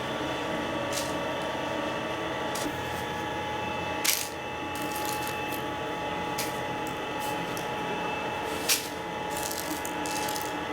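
Steady hum of bakery machinery, with several sharp metallic clinks and clicks over it; the loudest come about four seconds in and near nine seconds.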